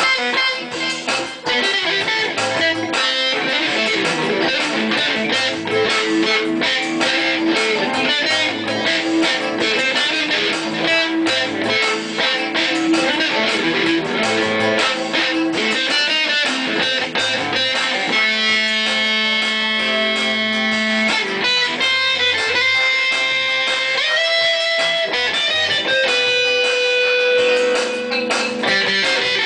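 Electric guitar playing: a fast run of rapidly picked notes for the first half, then long sustained notes with a pitch bend a few seconds before the end.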